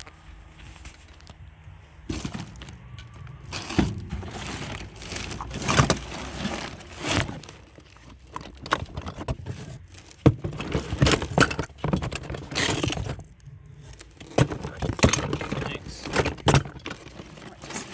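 Rummaging through a skip by hand: irregular clattering, clinking and knocks as scrap and rubbish are shifted about, in bursts with short pauses.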